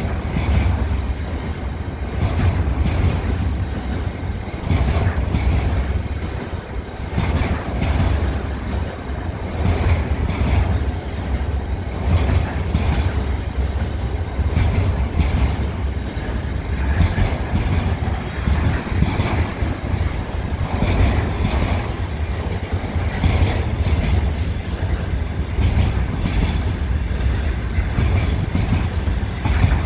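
Freight wagons of a long container train rolling steadily past, with a constant low rumble and wheels clacking over the rail joints.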